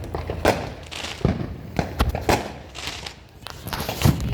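Fireworks going off: several sharp pops at uneven intervals, the loudest near the end.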